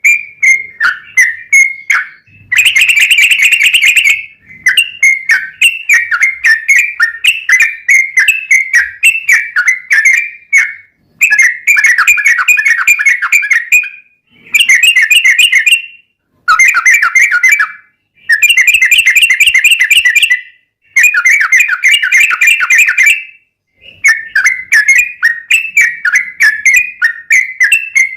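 Yellow-vented bulbul (trucuk) singing a long, loud, chattering song: strings of quick notes alternate with stretches of very fast trilling, with a few brief pauses.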